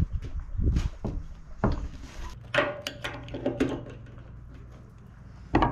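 Knocks and clatters of metal parts and tools being handled, with a brief metallic ring in the middle.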